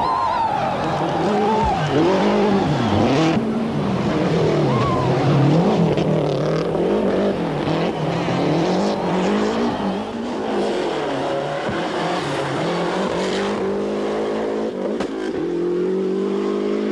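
Rally car engines revved hard on a stage, the pitch climbing and dropping again and again with gear changes and lifts off the throttle. Near the end one engine pulls in a long, steady rising note as the car accelerates.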